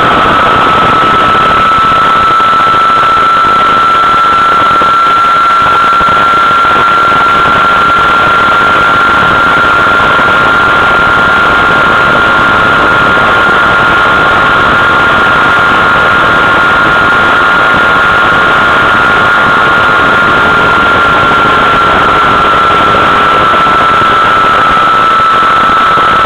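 Motorcycle engine held at high revs at high speed, a steady high-pitched whine that climbs slightly and eases off a little near the end, buried in rushing wind noise on the bike-mounted microphone.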